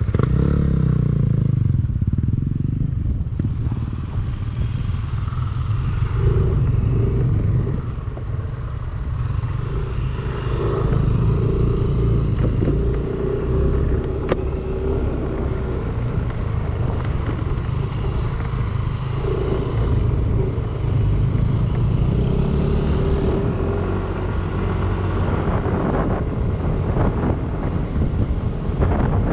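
Yamaha Aerox 155 scooter's single-cylinder engine running under way, its revs rising and falling as it is ridden.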